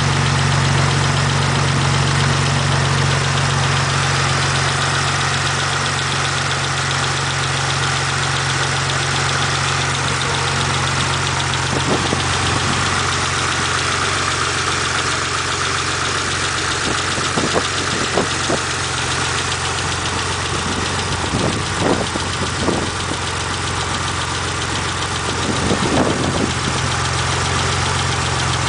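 1991 Mitsubishi GTO's 3.0 L V6 idling steadily with a fast, light ticking, which the owner hopes is lifter tick and fears may be something worse. A few sharper clicks stand out midway and again near the end.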